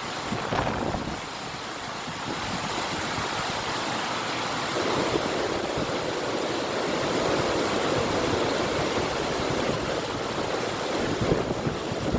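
River water rushing steadily, with wind blowing; the rush grows fuller a little over a third of the way in.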